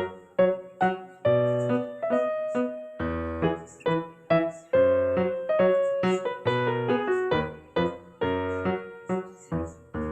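Piano music: a steady run of struck notes, each fading after it is played, over low bass notes.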